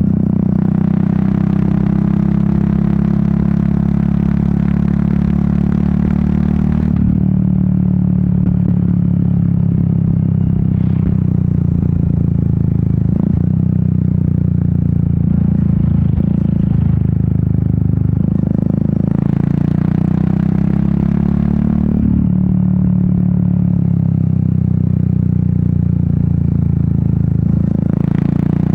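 Royal Enfield Meteor 350's single-cylinder engine and exhaust running steadily on the move. The sound grows brighter and harsher and then eases back a few times, about a quarter of the way in, near the middle and again near the end.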